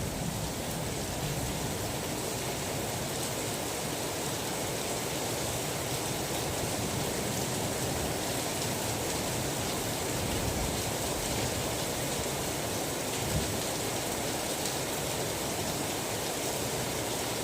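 Steady rain, an even hiss with no change through the stretch.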